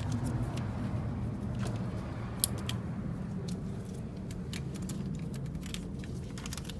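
Scattered light clicks and metallic rattles of hands working on car parts and wiring-harness connectors, with one sharp click a little over two seconds in, over a steady low hum.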